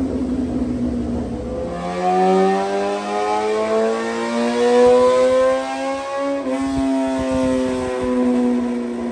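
Inline-four superbike engine running on a motorcycle dyno. About two seconds in it climbs steadily in revs under load for several seconds, as in a dyno pull, then backs off a little past the middle and winds slowly down.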